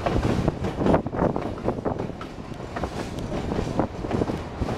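Railroad car rolling along the track: wheels rumbling on the rails with a string of knocks and clicks, and wind buffeting the microphone.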